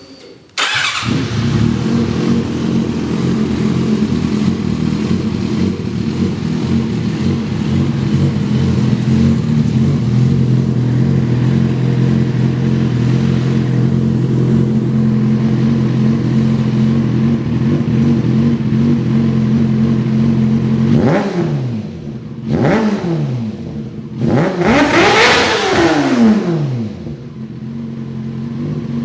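2005 Yamaha R6's 600 cc inline-four engine, fitted with a Two Brothers aftermarket exhaust, starting up about half a second in and idling steadily. Near the end it is revved three times, the third rev the longest and highest, then drops back to idle.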